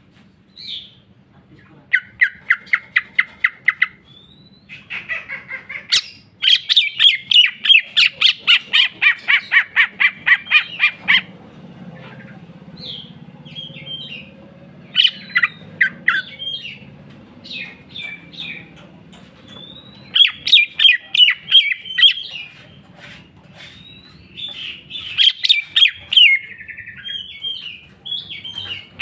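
Cucak ijo (green leafbird) singing: loud rattling trills of about five notes a second, lasting a few seconds each and coming four times, with short varied chirps and whistles between them, a song packed with imitated calls.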